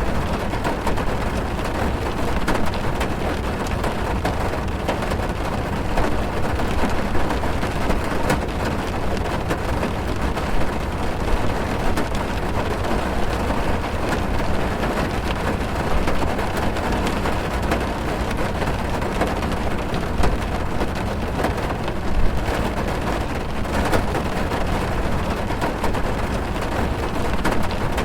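Heavy rain pouring onto a car's roof and windscreen, heard from inside the car: a steady dense hiss with a deep rumble, with many individual drop hits standing out.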